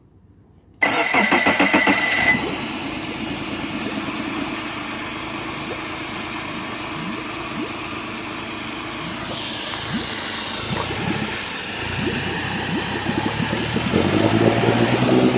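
Honda 60 fuel-injected four-stroke, three-cylinder outboard motor being key-started: the electric starter cranks with a whine for about a second and a half, the engine catches and settles into a steady idle. It gets louder near the end.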